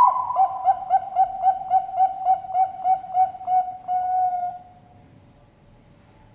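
Bangkok-type zebra dove (perkutut) cooing its song: a sudden first note, then a rapid even series of a dozen or so short coo notes, about four a second, ending in one longer held note about four seconds in.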